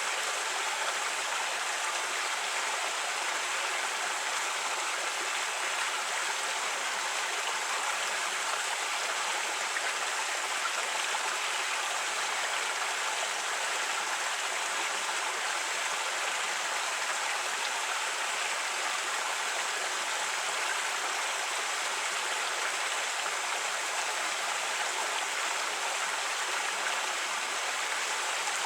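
Creek water running over rocks, a steady rushing and babbling.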